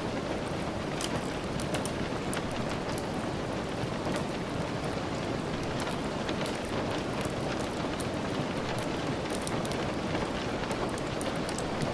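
Steady rain falling, mixed with the scattered light crackle of a wood fire.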